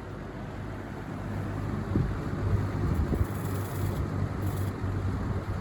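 Lasko box fan running on low speed: a steady motor hum under the rush of air, with gusts buffeting the microphone from about two seconds in.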